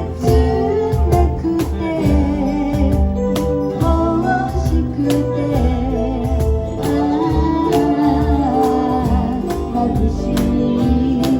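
A live band playing a song, with drums keeping a steady beat under a melodic line.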